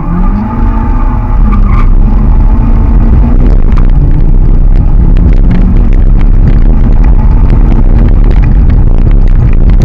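Car engine at full throttle, heard from inside the cabin, accelerating hard down the strip: its pitch climbs over the first two seconds, then a loud, dense run with rattling and crackle while the driver changes up through the gears.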